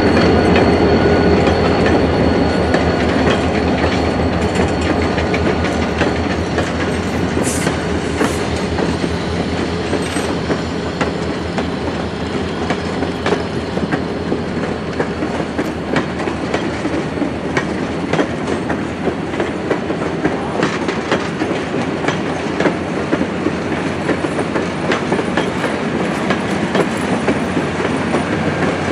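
Passenger coaches rolling past at a steady speed, their steel wheels clicking rapidly over rail joints, a little louder in the first few seconds and then even.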